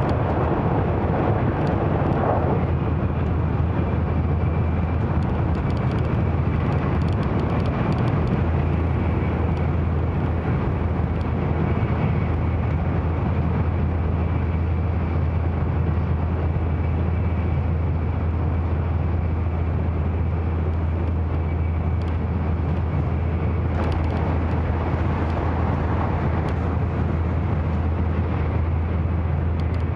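Running noise inside the passenger cabin of an N700-series Shinkansen travelling at speed: a steady low hum under a continuous rush of wheel, rail and air noise. The rush swells briefly near the start and again about 24 seconds in.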